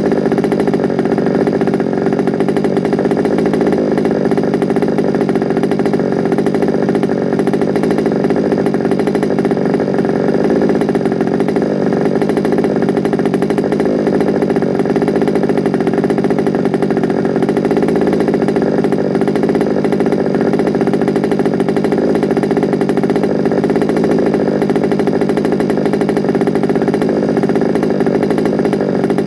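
Small two-stroke petrol engine of a large-scale FG Sportsline RC car running steadily at a constant speed, with no revving.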